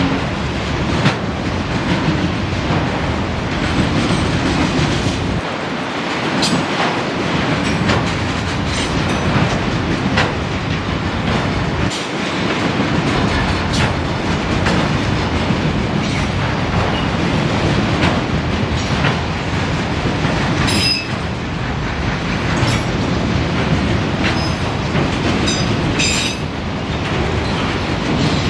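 Train cars rolling past on the rails, wheels clicking steadily over rail joints. Twice in the later part there is a brief high wheel squeal.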